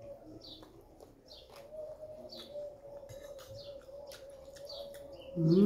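A small bird chirping over and over, about one short falling chirp a second, over a faint steady hum.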